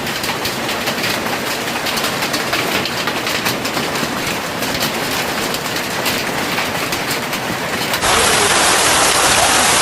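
Hailstones clattering down with heavy rain: a dense, irregular patter of sharp hits. About eight seconds in, the sound cuts abruptly to a louder, steady rush of downpour.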